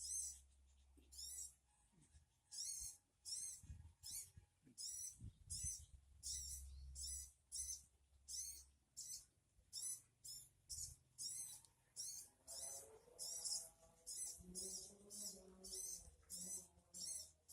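Sogon bird calls: short, very high, wavering notes repeated about one to two times a second in a long series, as played to lure a sogon into answering. A fainter, lower-pitched sound joins in between about twelve and sixteen seconds.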